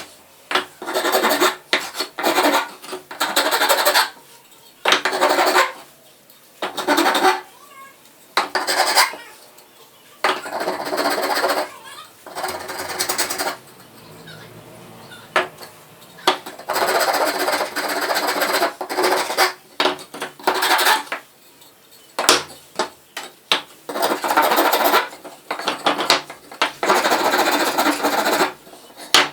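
Irregular rasping, scraping strokes on the wood of a chair, each lasting about half a second to a second and a half, with short pauses between them.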